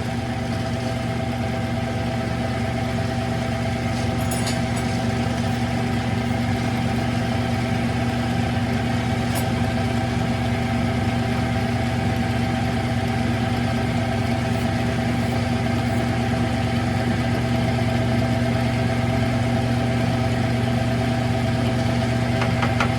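Smithy CB-1220XL 3-in-1 lathe running at a slow spindle speed with the automatic feed engaged, taking a facing cut on a transmission nut: a steady, even motor and gear hum.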